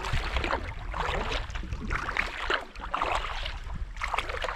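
Water splashing and lapping around a kayak in irregular bursts about once a second, with wind rumbling on the microphone.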